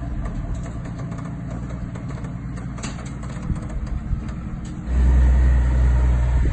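A car engine running steadily at idle, its low hum becoming suddenly louder about five seconds in.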